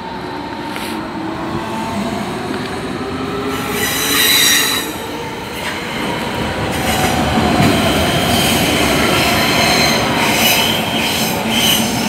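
Berlin S-Bahn Class 481 electric trains moving through the station, with a steady rolling rumble. High-pitched wheel squeal rings out about four seconds in, and again in short bursts near the end as a train passes close by.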